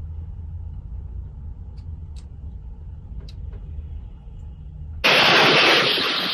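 Steady low rumble of a vehicle running, with a few faint ticks. About five seconds in it gives way abruptly to a much louder rushing hiss.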